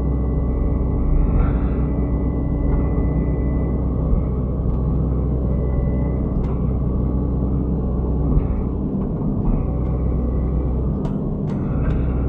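Hydraulic excavator's diesel engine running steadily under work, with a few short knocks now and then.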